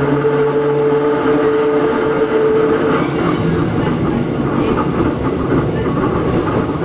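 Onboard running sound of the Hakone Tozan Railway Moha 1 electric car No. 106, with nose-suspended (吊掛) SE121-A traction motors. A steady motor-and-gear whine fades out about three seconds in, leaving the rumble and clatter of the car rolling on the rails.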